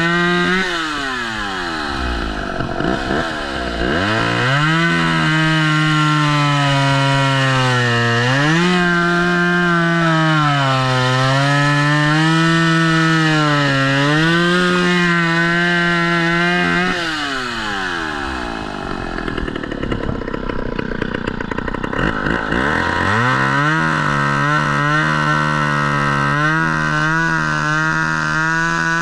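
Two-stroke chainsaw run at full throttle through cuts in downed trees, its pitch sagging as the chain loads up in the wood. It drops back toward idle just after the start and again about two-thirds of the way through, and revs back up each time.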